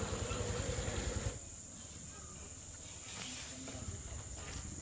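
Steady high-pitched chirring of crickets or similar insects, with a low rumble under it that stops after about a second.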